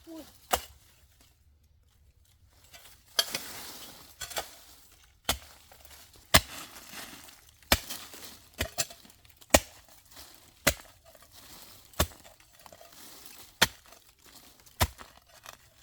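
A series of sharp, single knocks or chops, about one a second.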